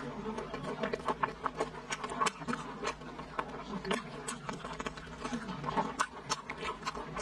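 A person chewing a mouthful of braised pork close to the microphone: irregular wet smacking and mouth clicks, several a second.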